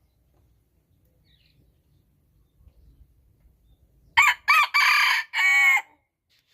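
Rooster crowing once, a full cock-a-doodle-doo in four parts that starts about four seconds in and lasts about a second and a half.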